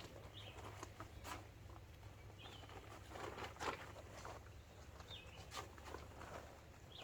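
A bird calling faintly, a short chirp repeated about every two and a half seconds, over light scattered rustles and knocks.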